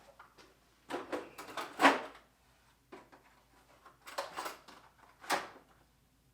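Metal tool chest drawers and tools handled: clattering knocks and scrapes in two bursts, the loudest clank about two seconds in.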